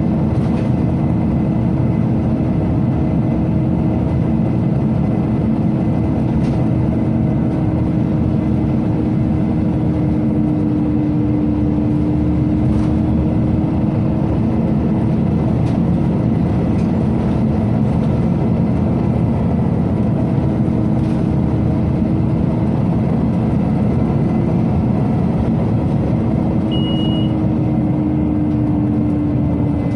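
Steady drone of a Scania OmniCity city bus's ventilation system while the bus drives, with engine and road noise underneath. A hum holds nearly one pitch throughout. A short faint beep sounds near the end.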